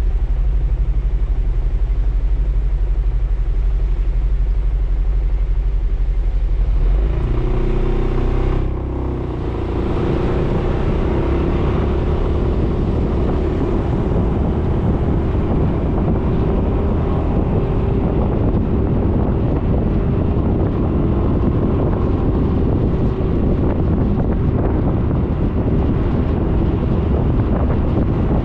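Suzuki Burgman 400 maxi-scooter's single-cylinder engine running steadily with a low hum. About seven to nine seconds in, the sound changes to a louder rush of wind and road noise with a steady whine over it as the scooter rides on.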